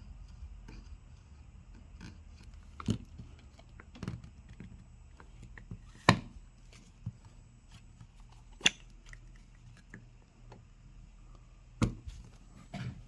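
Scattered sharp clicks and taps of a plastic prying tool working against a phone's frame and screen, about seven in all, the loudest about six seconds in, over a faint low hum.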